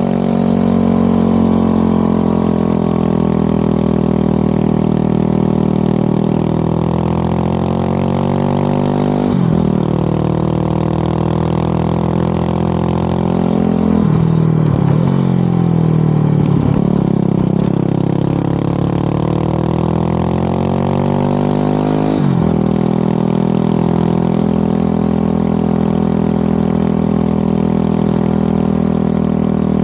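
Single-cylinder Yamaha WR250R engine through an FMF PowerCore 4 muffler, heard while riding: the note sinks and climbs with the throttle, with three short breaks in it, about a third, half and three quarters of the way through, as at gear changes.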